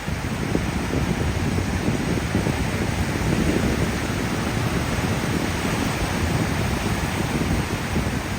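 Atlantic surf washing onto a beach in a steady rush, swelling slightly about three and a half seconds in, with wind rumbling on the microphone.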